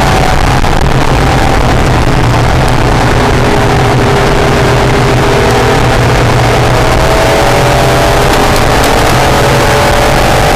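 Acura NSX's mid-mounted V6 engine running hard on a lap, its pitch easing down over the first few seconds and then climbing steadily as the car accelerates, over a loud rushing noise.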